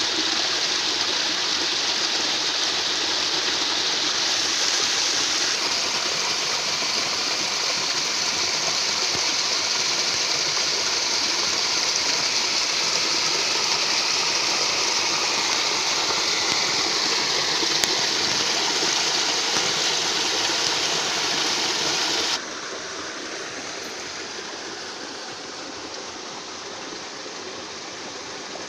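Steady rush of flowing water, such as a stream or waterfall, dropping abruptly to a quieter level about three quarters of the way through.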